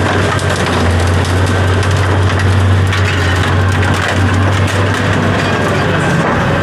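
A large engine running steadily with a constant low hum, under a dense, continuous clatter and crunching.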